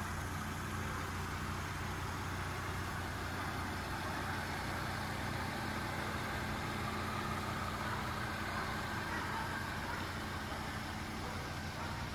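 2016 Volvo XC70 engine idling steadily, with a low, even hum.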